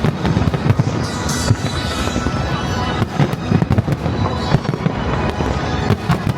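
Fireworks display: a dense, continuous barrage of aerial shell bursts and bangs, with a burst of crackling about a second in.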